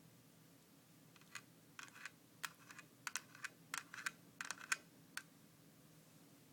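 An irregular run of about twenty light, sharp clicks and taps, starting about a second in and stopping about a second before the end.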